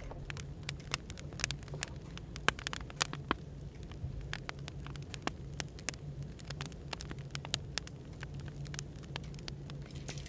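Burning firewood crackling with irregular sharp pops, over a steady low hum of background noise.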